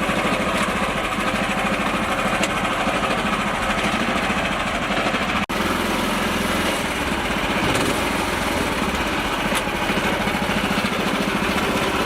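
Miniature tractor's small engine running steadily with a fast, even pulse, briefly cut off about halfway through.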